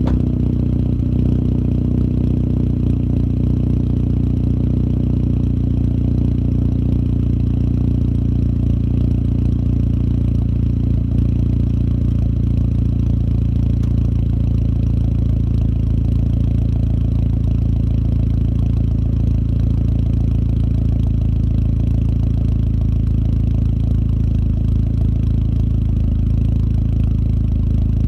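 A vehicle engine idling steadily while warming up after a cold start, with an even, unchanging note.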